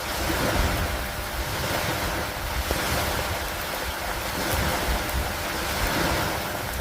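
Steady rain falling, an even hiss with a low, fluctuating rumble underneath.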